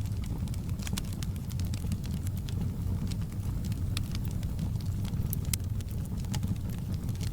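Fire burning in a fireplace, crackling: sharp pops and snaps at irregular intervals over a steady low sound of the flames.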